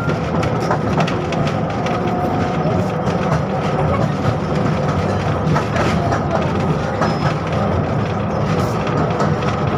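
Running noise of a KTM-5M3 (71-605) tram under way, heard from inside the car: a steady rumble and hum of the wheels on the rails, with scattered clicks.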